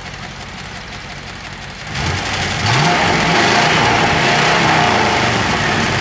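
1995 Cadillac Fleetwood's LT1 V8 idling, then revved up about two seconds in and held at high revs for several seconds. It pulls strongly now that new spark plug wires have cured its misfire.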